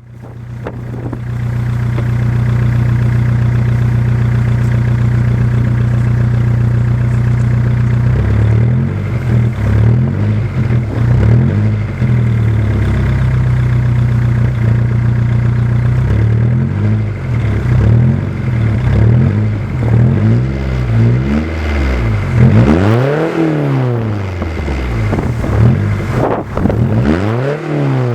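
Seat Ibiza 1.9 SDI diesel engine breathing through a silencer-less stainless straight-pipe exhaust. It idles steadily, then from about eight seconds in is revved over and over in short blips, with a couple of higher revs near the end.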